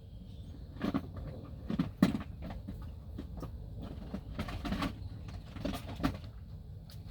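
A string of knocks and rustles, like things being handled and moved about, over a steady low rumble. The sharpest knock comes about two seconds in.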